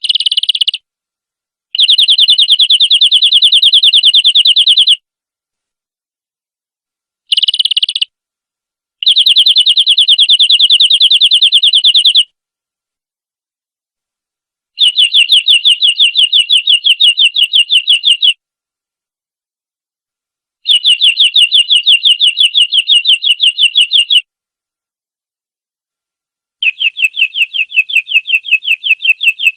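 Domestic canary singing fast, evenly repeated trills in phrases of about three seconds each, separated by pauses of two to three seconds, with two short fragments among the first phrases.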